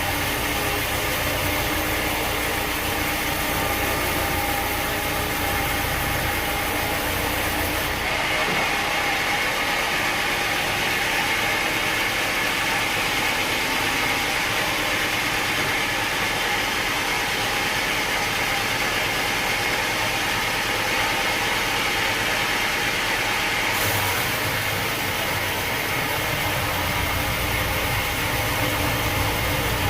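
Sawmill machinery running steadily. Its tone shifts higher about eight seconds in and shifts back about six seconds before the end.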